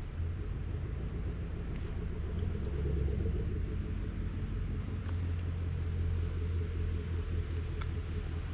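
Motorcycle engine running at a steady cruising speed, a constant low drone mixed with wind rumble on the rider's microphone.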